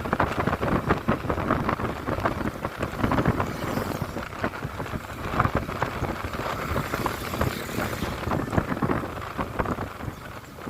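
Wind buffeting the microphone on a moving motorcycle: a rough, gusty rush of noise with no steady break.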